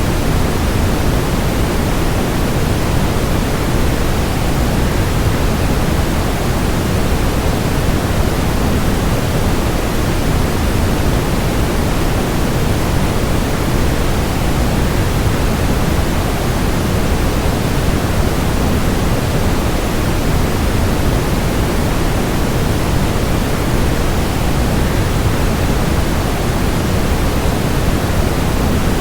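Steady, unchanging rushing noise, fuller in the low end than the high: a waterfall sound blended with white noise.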